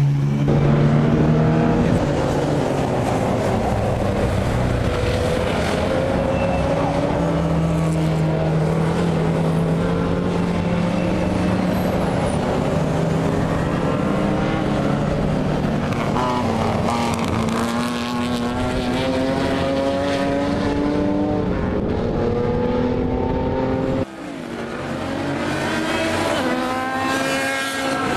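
Historic racing cars' engines running hard on track, their pitch climbing slowly as they accelerate. Near the end the sound cuts abruptly to a quieter car that then builds up again.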